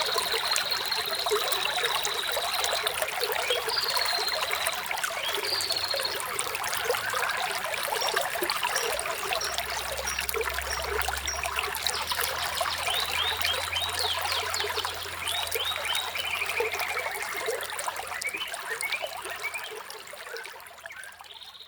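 Water trickling and babbling over stones, with small birds chirping: a long high trill at the start, short calls after it and a run of rapid notes with a falling trill later on. A faint low hum joins in the middle, and the sound fades out at the end.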